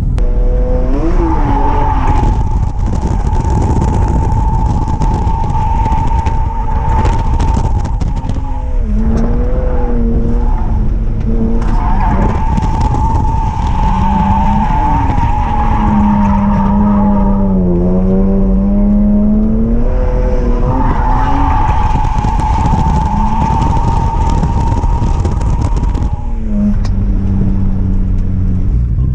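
BMW E46 M3 drift car's S54 inline-six at high revs while its tyres squeal through three long slides. The engine pitch dips and climbs between the slides.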